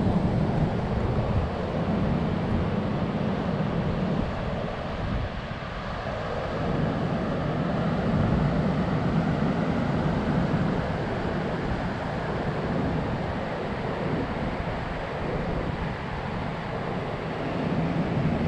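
Kawasaki Z750's inline-four engine running on the move, mixed with steady wind rush over the helmet-mounted action-camera microphone.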